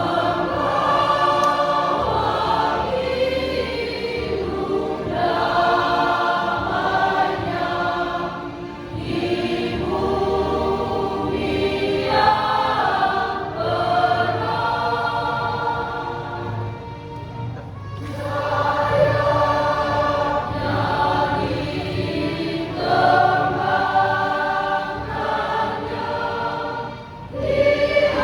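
Church choir singing a hymn in several-part harmony, in long held phrases with brief breaths between them.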